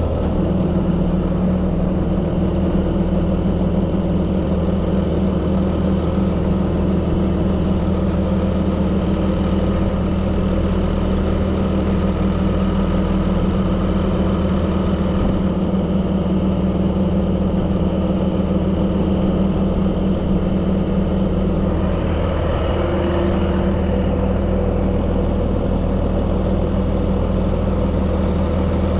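Heavy diesel truck engine running steadily at idle, powering the hydraulic winch as it pulls a dump truck up onto a Landoll trailer.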